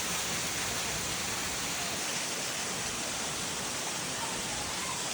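Waterfall: water falling and splashing into a pool, a steady rushing noise.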